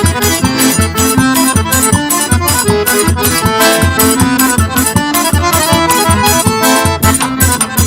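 Instrumental forró music: an accordion playing the melody over a steady, even percussion beat, with no singing.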